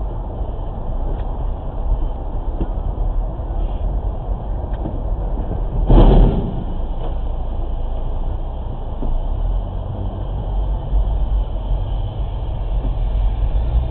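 Steady road and engine rumble of a moving vehicle, recorded by a dashcam, with one loud thump about halfway through.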